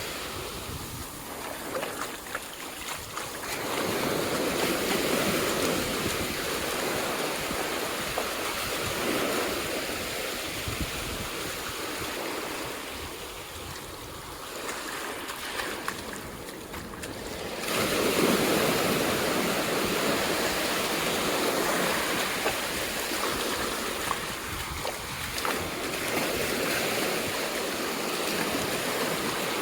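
Ocean surf on a beach: waves breaking and washing up the shore, the rush of water swelling louder about four seconds in and again more suddenly past the halfway point.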